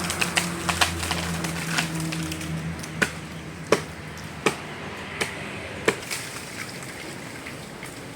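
Sharp wooden knocks, about eight of them at uneven spacing roughly three-quarters of a second apart. Under them a low steady engine hum fades away about three seconds in.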